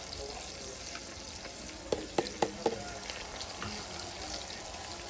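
Onions and celery sizzling steadily in melted butter in a cast iron pot. Around two seconds in, a utensil knocks sharply against the pot four times in quick succession during stirring.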